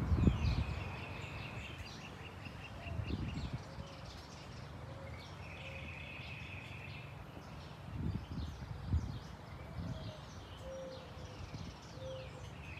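Small birds chirping, with two longer trills held for a couple of seconds each, at the start and about five seconds in. Under them, a low rumbling noise swells a few times.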